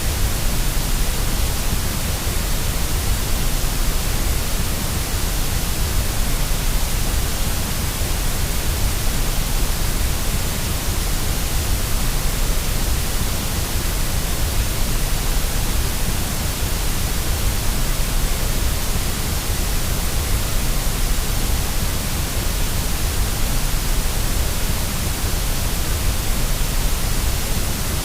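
Steady white noise played to soothe a baby to sleep: an even hiss over a strong low rumble.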